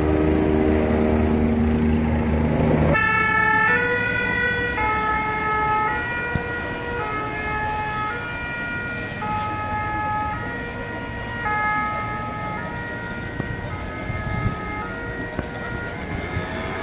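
A vehicle engine runs close by for about three seconds. Then a French two-tone emergency-vehicle siren starts up, alternating between a high note and a low note about once a second, along with street traffic.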